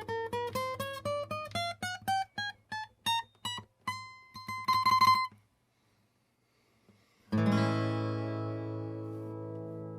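1983 Yamaha FG-300 steel-string acoustic guitar played solo: a quick run of single plucked notes climbs in pitch over a ringing low bass string and ends on a held high note about halfway through. After a short pause a full chord is struck and left to ring out, fading slowly.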